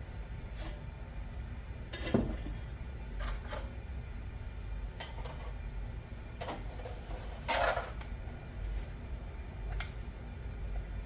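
Scattered metallic clinks and knocks from parts being handled, about eight or nine of them, the loudest a brief clatter near the end, over a steady low rumble.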